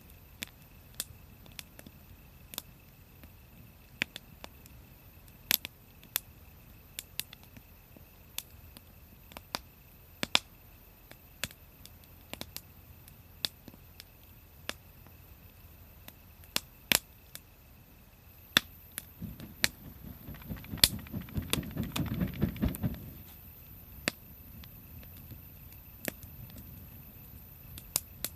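Wood fire crackling, with sharp, irregular pops one to a few seconds apart. About twenty seconds in, a low rushing sound swells for a few seconds while the popping comes thicker, then drops back.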